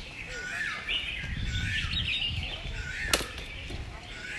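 Birds chirping and singing in short, repeated curling phrases, with a low rumble around the middle and one sharp click about three seconds in.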